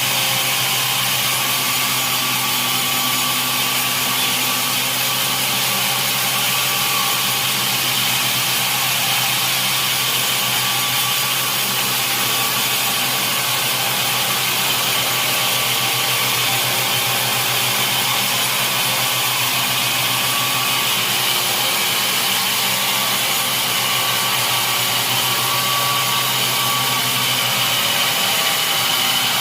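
Sawmill machinery running steadily: a constant mechanical hum with a hiss over it, holding even throughout.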